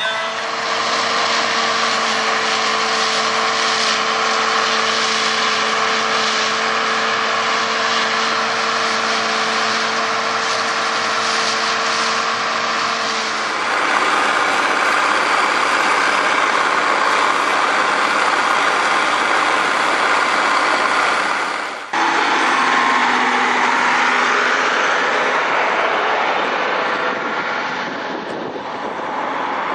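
Engines of heavy farm machines running steadily, in three spliced recordings: the sound changes abruptly about 13 seconds in and again, after a brief dip, about 22 seconds in.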